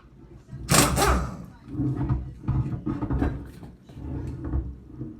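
Tools and parts being handled while an ATV rear wheel is taken off: a sharp metallic clatter about a second in, then irregular knocks and scrapes.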